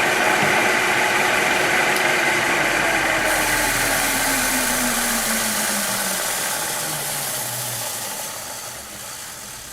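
Electric motor spinning down after being switched off: its hum falls steadily in pitch and fades over several seconds as the machine coasts toward a stop, with the running hiss cutting out near the end.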